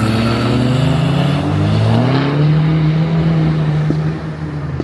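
A car's engine and exhaust accelerating away, the engine note climbing in pitch and then holding steady before dropping away about four seconds in.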